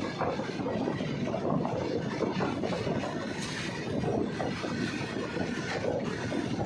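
Train running past on the rails: a steady rumble of wheels and coaches with a light clatter.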